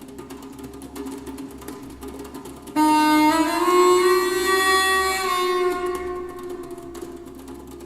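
Music played back through a Canton Plus S two-way mini speaker: a low drone with faint ticking, then about three seconds in a loud held note, rich in overtones, that slides up a little and fades away over the next few seconds.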